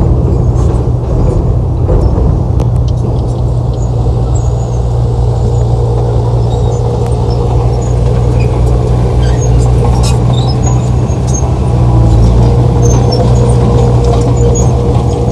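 Bulldozer's diesel engine running steadily with a deep rumble, with scattered small clicks and clinks over it.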